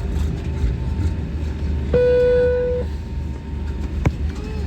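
Steady low rumble of an airliner cabin as the plane taxis after landing. About two seconds in, a single loud steady tone sounds for just under a second and stops abruptly, and a sharp click follows near the end.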